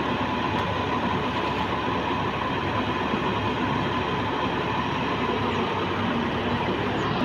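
Heavy diesel machinery running steadily, a dense mechanical drone with a faint steady whine above it.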